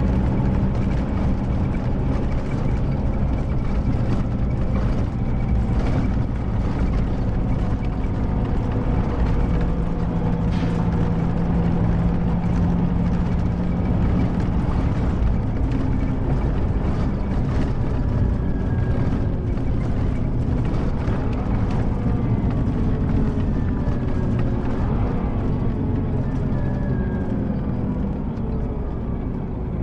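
Scania K310IB coach's rear-mounted diesel engine running while the bus is under way, with driveline whine. In the second half several whines fall steadily in pitch as the bus slows.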